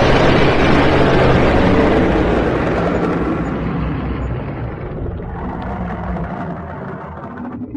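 Dragon sound effect: a long, loud rushing rumble with a deep low end that fades away slowly over several seconds.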